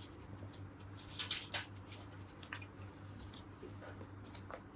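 Faint scattered clicks and scrapes of hand work on a motorcycle engine case's gasket surfaces, over a low steady hum.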